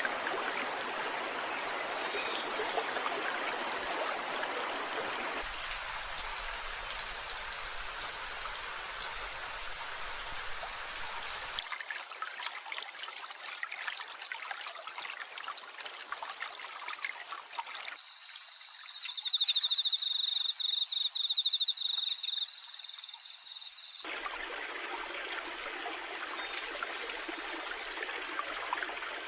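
Steady splashing of rain or running water, changing abruptly several times as if separate recordings were spliced together. High, rapid trilling calls sound over it about a fifth of the way in and again, louder, past the middle.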